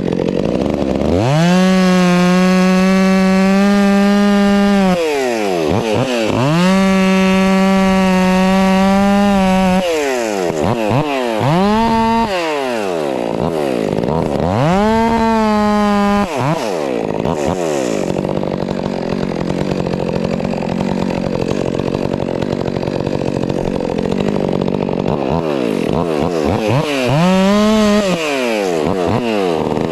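Stihl MS 400 C two-stroke chainsaw run up to full throttle again and again while cutting firewood. It holds a high, steady pitch for a few seconds at a time and drops back in between: two long runs early on, several shorter ones after, and a rougher, lower stretch in the middle.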